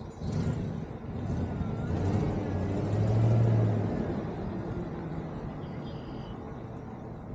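A motor vehicle passing by: its engine hum swells to a peak about three seconds in and then fades away.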